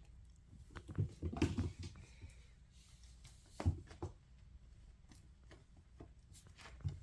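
Bengal kittens playing, their paws and bodies making light knocks and scuffles: a busy cluster about a second in, then single knocks near the middle and near the end.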